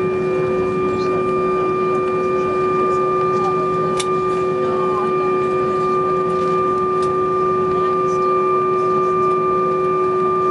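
Steady airliner cabin noise: jet engines and cabin air system running with a constant hum and several held whining tones over a rushing haze, faint murmuring voices, and a single click about four seconds in.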